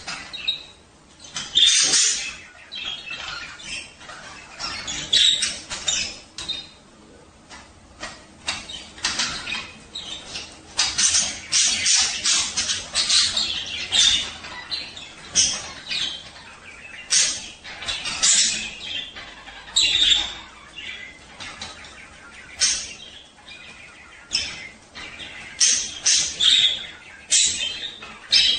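Budgerigars chirping and chattering in quick, irregular bursts of high, sharp calls: the warbling chatter of male budgies in breeding condition.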